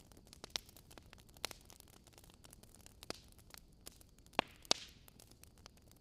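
Wood fire crackling: irregular sharp pops and snaps over a faint hiss, the two loudest close together about four and a half seconds in.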